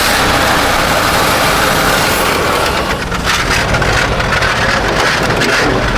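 1970 Chevrolet C-40 truck's engine running after sitting unused for over 15 years. Its note is steady at first, then turns choppier and pulsing about halfway in.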